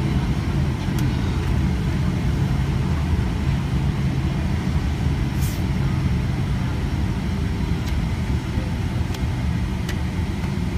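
Steady low cabin rumble of a Boeing 767-300's engines and airframe heard from a window seat, with a faint steady whine and a few light clicks. No build-up in power is heard.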